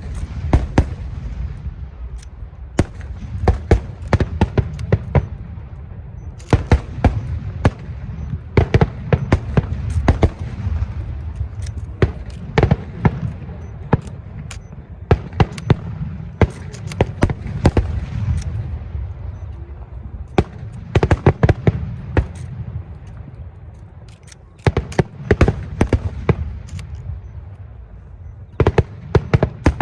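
Aerial fireworks display: sharp bangs of bursting shells going off in rapid clusters over a continuous low rumble and echo, easing briefly about three-quarters of the way through before another volley.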